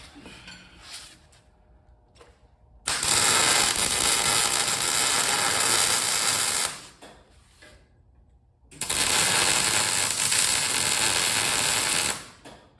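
Wire-feed (MIG) welder arc crackling as it lays two weld beads, each about four seconds long and cut off abruptly, with a short pause between; it is welding a shovel blade onto a steel sculpture.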